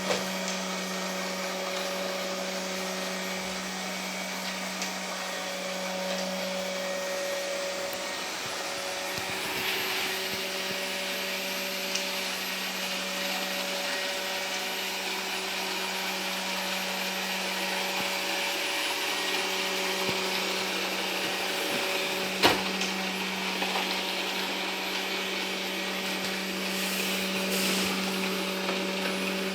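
Ilife V55 Pro robot vacuum running with a steady motor hum and whir. A sharp knock comes about three quarters of the way through, with a few lighter clicks elsewhere.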